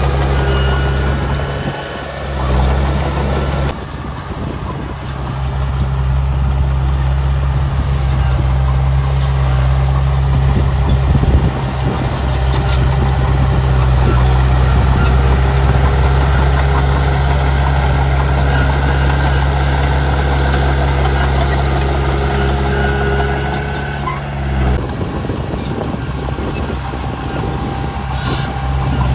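Heavy diesel engine of earthmoving machinery running steadily with a low, even drone. The sound changes abruptly about four seconds in and again a few seconds before the end.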